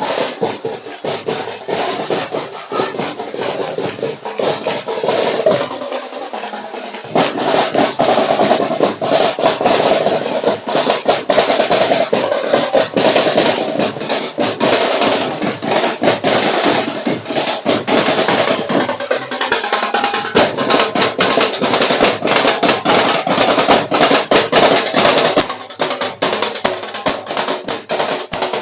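A street-dance percussion band drumming fast and densely, with snare drums prominent; it gets louder about seven seconds in.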